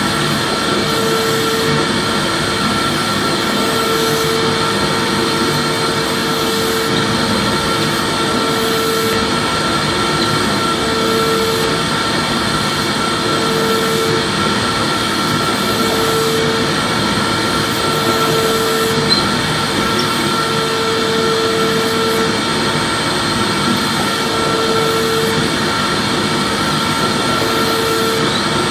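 Vacuum cleaner motor running steadily, a constant whooshing noise with a steady high whine and a lower hum that pulses on and off about every two seconds.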